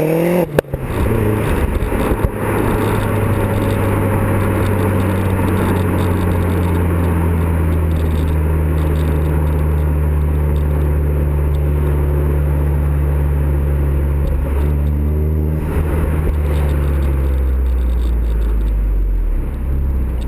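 Vauxhall Zafira VXR's turbocharged 2.0-litre four-cylinder running through a custom exhaust. It finishes a rising rev, breaks off sharply about half a second in, then settles into a steady drone whose pitch slowly falls. A short rise comes around two-thirds of the way through, and the pitch drops lower near the end.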